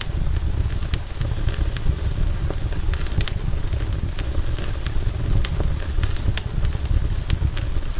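Campfire burning, with many irregular sharp crackles and pops over a steady low rumble.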